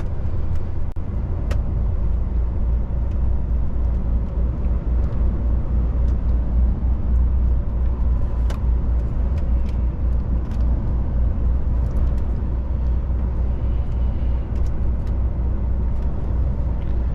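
DAF truck's diesel engine and road noise heard inside the cab while driving: a steady low drone with a few faint clicks.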